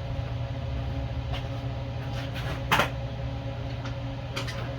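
Steady hum of a shop fan, with a few light clicks, one sharper knock a little past halfway and more clicks near the end as a small-engine carburetor and its parts are handled on a workbench.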